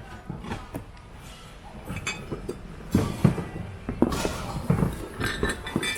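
Dishes and other housewares clinking and knocking together as hands rummage through a thrift-store bin, with a run of sharper knocks about three seconds in and again between four and five seconds.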